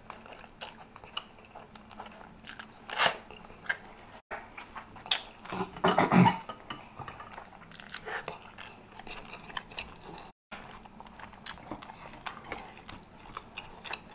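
Close-miked chewing and slurping of spaghetti and rotisserie chicken, with wet mouth clicks throughout. There are louder moments about three seconds in and again about six seconds in.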